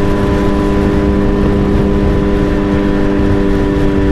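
Suzuki Hayabusa's inline-four engine running at a steady speed while riding, its pitch holding level, with rushing wind and road noise underneath.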